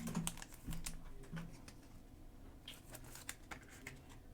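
Faint, irregular small clicks and light rustling from hands handling things on a desk, with a couple of clusters of ticks about a second in and again near three seconds.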